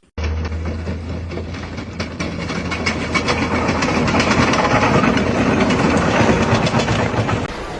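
A heavy engine running with a steady low hum under a dense rattling clatter, building to its loudest about halfway through and easing off near the end.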